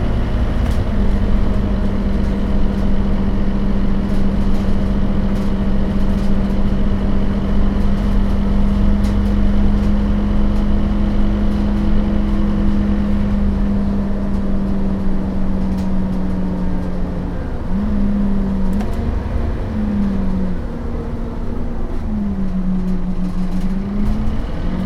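Scania K270UB bus running, its five-cylinder Scania DC9 turbodiesel and ZF Ecomat automatic gearbox giving a low rumble with a steady drone at one pitch. About two-thirds of the way through, the pitch starts to waver up and down several times.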